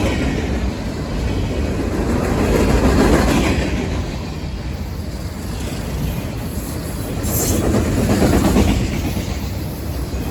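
Train cars rolling past, their wheels clacking over the rail joints in a steady rumble that swells and eases, with a brief high wheel squeal about seven seconds in.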